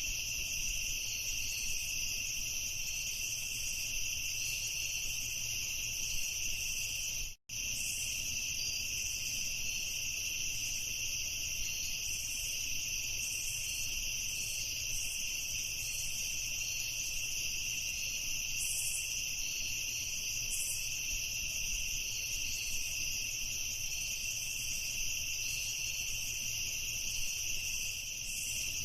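A steady chorus of crickets chirping, a dense continuous trill. The sound cuts out completely for a split second about seven seconds in.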